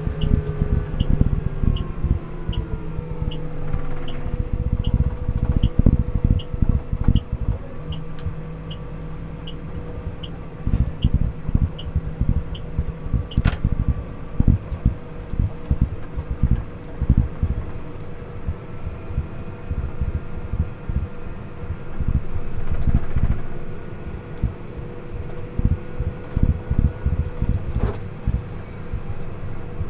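Car cabin on the move: engine and road noise with heavy low rumbling and buffeting, the engine note falling as the car slows for a turn. The turn indicator ticks about twice a second for roughly the first twelve seconds, then stops.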